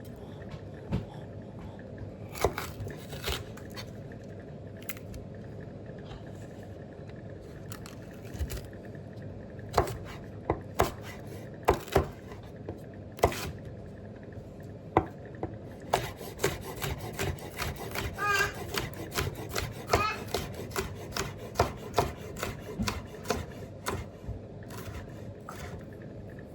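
Kitchen knife chopping vegetables on a wooden cutting board: sharp knocks, scattered at first, then coming a few a second through the second half.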